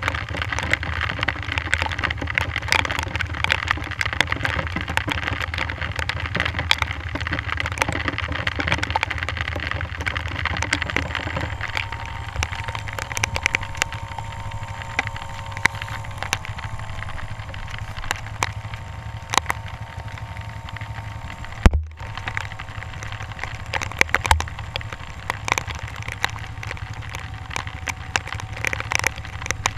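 Dirt bike engine running steadily, with many sharp ticks of rain striking the camera.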